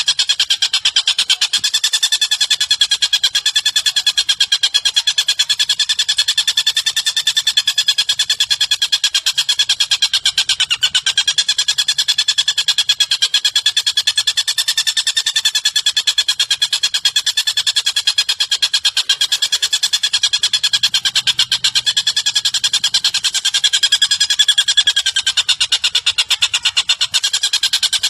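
A bird's rapid, continuous trill: many quick pulses a second on a slightly wavering pitch, unbroken throughout.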